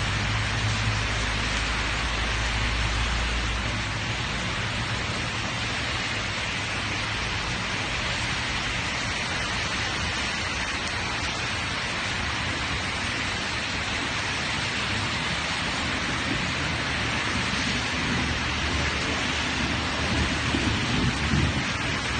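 Steady heavy rain falling and splashing on hard surfaces, with a low rumble in the first few seconds.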